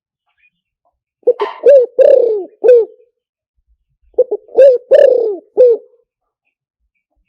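Spotted dove cooing: two phrases of several low notes each, about three seconds apart.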